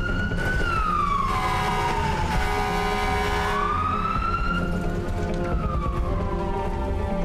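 Fire engine siren wailing, its pitch rising and falling slowly about every five seconds over a low engine rumble. About a second in, a steady horn blast sounds for a couple of seconds.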